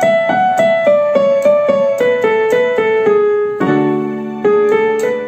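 Electronic keyboard on a piano voice playing a quick single-note melody, about four notes a second and mostly stepping down in pitch. A low sustained chord joins about two-thirds of the way through, under a few more melody notes.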